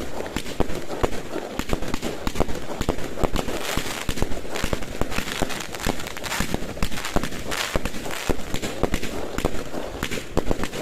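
Fireworks going off: a dense, continuous stream of pops and cracks, with a few longer hissing surges about four to eight seconds in.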